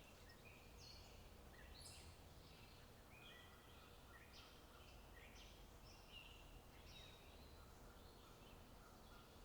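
Faint birdsong: many short chirps and twittering phrases from several small birds, one after another, over a low, steady outdoor rumble.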